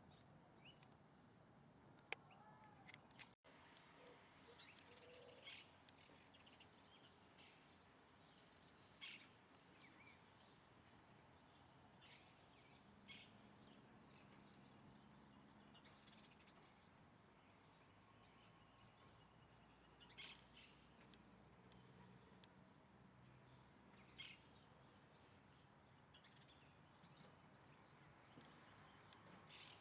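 Faint wild bird calls: short high chirps every few seconds over a steady low background hiss.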